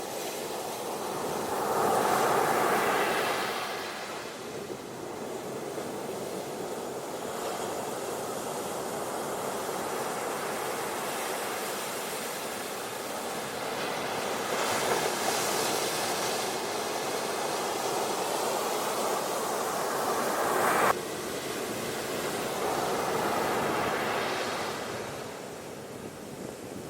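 Ocean surf washing onto a beach, a steady hiss of water that swells louder three times as waves break and run up; one swell cuts off abruptly about two-thirds of the way through.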